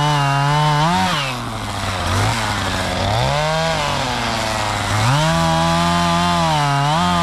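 Chainsaw running hard, its engine pitch dropping back and climbing to full revs about three times, then blipping quickly near the end.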